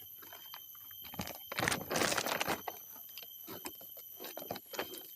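A burst of dense crackling and crunching about a second and a half in, with scattered clicks before and after, over a steady high insect drone.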